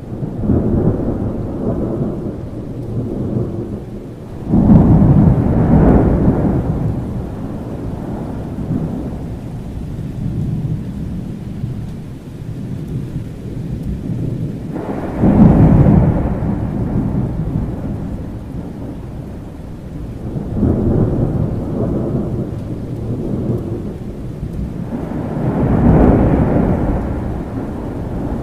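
Thunder rumbling again and again over steady rain. Two claps start suddenly, about four and a half seconds in and again around fifteen seconds, and softer rolls swell up near the start and twice in the last third.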